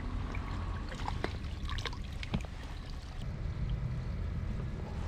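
Water trickling and splashing in a garden pond, with scattered small clicks over a steady low rush.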